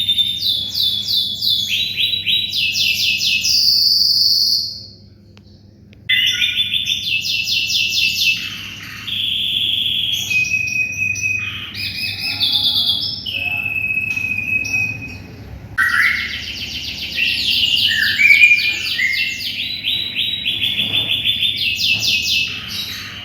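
Domestic canary singing a long, loud song of fast trills and rapidly repeated notes, with a break of about a second and a half about five seconds in.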